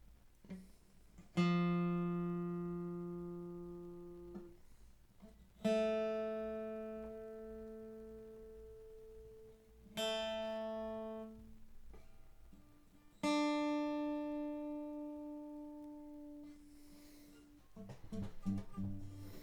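Freshly restrung Seagull S6 acoustic guitar, its strings plucked one at a time and left to ring while being tuned: four single notes a few seconds apart, each dying away slowly. The new strings are still settling in and need retuning. Near the end, several quicker notes follow.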